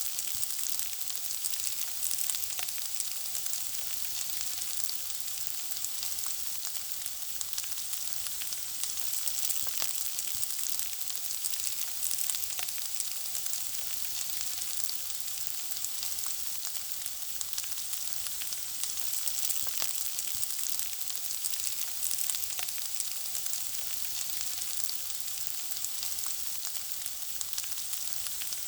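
Food frying: a steady sizzling hiss with many small crackles and pops scattered through it.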